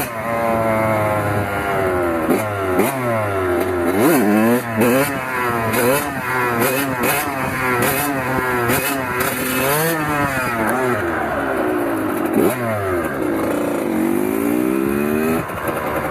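Kawasaki KX100 single-cylinder two-stroke dirt bike engine revving up and down repeatedly as the throttle is worked, its pitch climbing and dropping many times.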